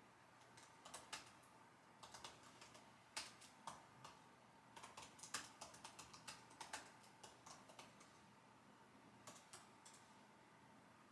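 Faint computer keyboard typing: short runs of keystrokes broken by pauses of a second or so.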